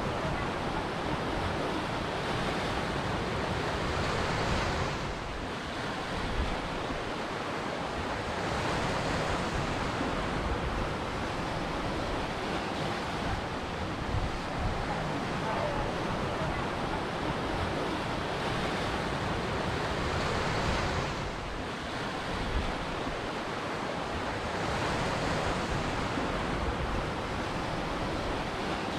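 Ocean surf breaking on a shore: a continuous wash of waves that swells and eases every few seconds.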